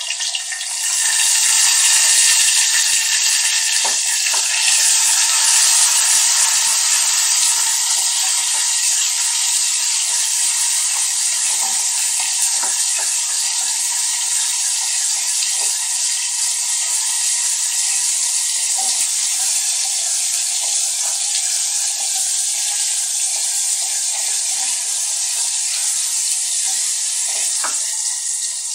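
Chopped tomato and shallots sizzling in hot oil in a clay pot, the sizzle swelling about a second in as the tomato goes in. A wooden spatula knocks and scrapes against the pot as it is stirred.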